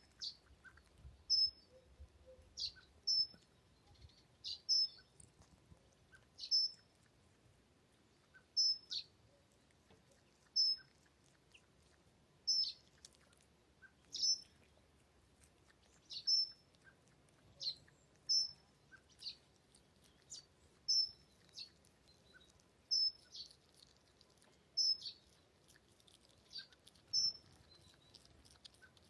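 A bird calling over and over: short, high chirps about once a second, some a quick downward sweep and others a brief level note with a little flick.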